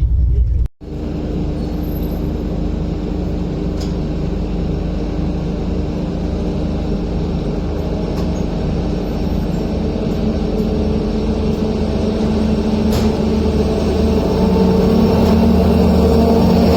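Passenger train running: a steady rumble with a few steady humming tones, growing gradually louder. A brief break comes near the start.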